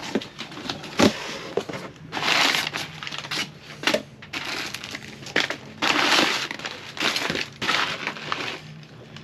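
Cardboard box and packing material being torn open and crumpled by hand, in irregular bursts of tearing and rustling with a few sharp knocks.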